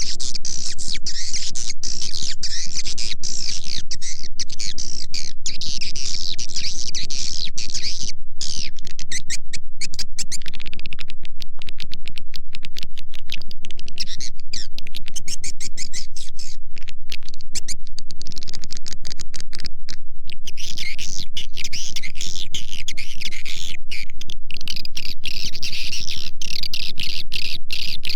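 Swiftlet call recording of the kind played to lure swiftlets into a bird house: dense, high-pitched twittering of many swiftlets mixed with rapid clicks. About a third of the way through the twittering thins out to mostly clicks, then fills out again after about twenty seconds, over a faint steady tone.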